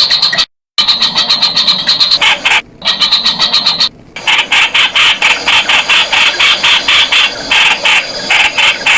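Streak-eared Bulbul giving a rapid run of short, sharp call notes, about eight to ten a second, broken by a few brief pauses.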